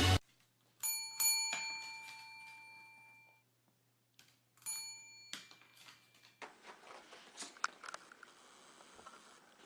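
Bell-like chime, two quick notes ringing and fading over about two seconds, then another strike about four and a half seconds in that is cut off short. Faint room noise with small clicks follows.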